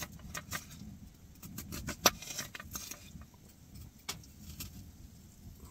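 Knife clicking against a plate while slicing an onion: a scattering of sharp clicks, one louder about two seconds in.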